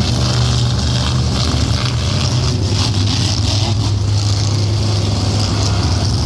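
Monster truck engine running loud and steady, with no clear revving up or down.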